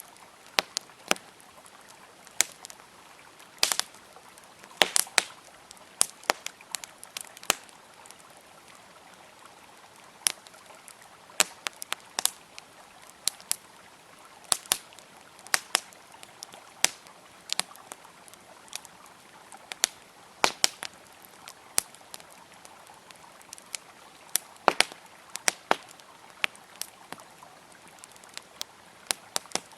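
Campfire crackling with irregular sharp pops, about one or two a second, over the steady rush of a flowing river.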